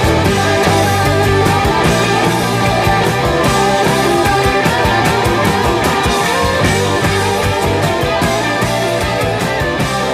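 Southern rock band playing a fast instrumental passage: electric guitars soloing over bass and a steady drum beat.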